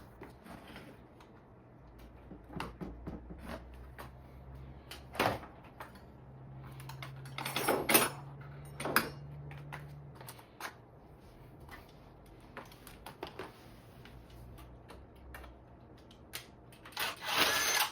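Scattered clicks and knocks of hand work on an e-bike's parts, the loudest about 8 seconds in and near the end, over a faint steady low hum.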